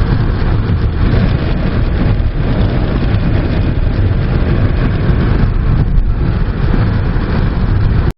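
Hurricane wind blowing hard and buffeting the microphone, a loud steady rumble with gusty surges and no break.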